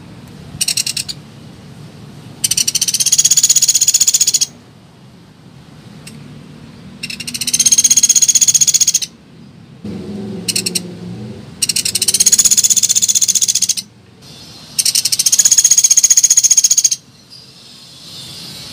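Pelatuk beras woodpecker calling: four long, fast rattling calls of about two seconds each, with a couple of short rattle bursts between them, as played on a bird-lure recording.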